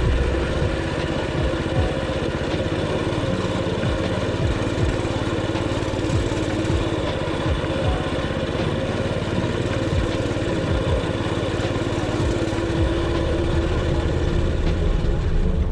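Small moped engine running steadily, with irregular low thumps.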